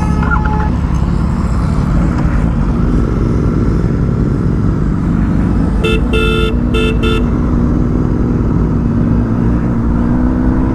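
Motorcycle engine running at riding speed with heavy wind noise on the helmet microphone, its engine note rising gently in the second half. About six seconds in, a vehicle horn sounds in several short toots.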